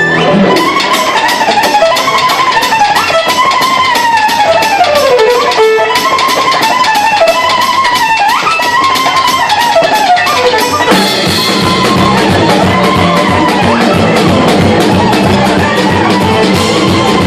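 Live band playing a very fast Romanian Gypsy-style instrumental: quickly picked and strummed string instruments under a lead melody that slides up and down. About eleven seconds in, a heavier, steady low beat from bass and drums comes in.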